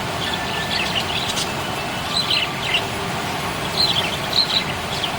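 Budgerigars chirping: short high chirps in little clusters of a few notes each, over a steady background hiss.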